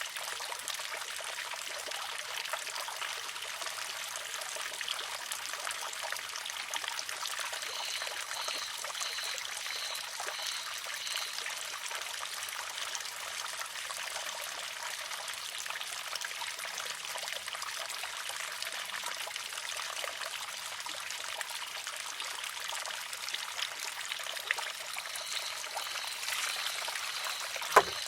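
Water trickling steadily into and spilling from a wooden shishi-odoshi (sozu), with one sharp wooden clack near the end as the filled arm tips over and strikes its rock.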